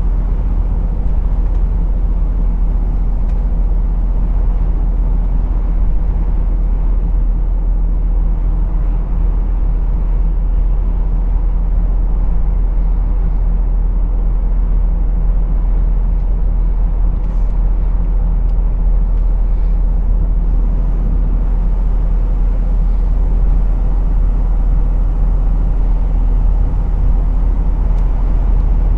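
Lorry's diesel engine running steadily on the move, with road noise: a constant low drone.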